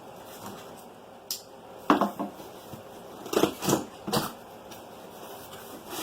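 Cardboard box and packaging being handled while a stick vacuum is unboxed: a few sharp knocks and clatters, most of them in a cluster in the middle.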